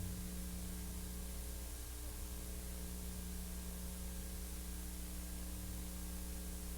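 Steady hiss and low electrical hum with no other sound: the noise floor of a silent archival film transfer with no soundtrack.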